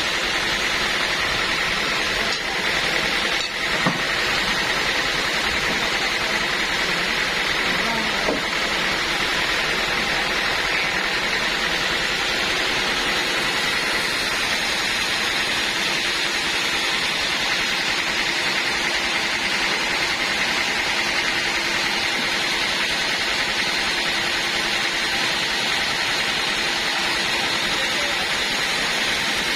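Band sawmill machinery running steadily with a constant whine, with a couple of faint knocks in the first few seconds.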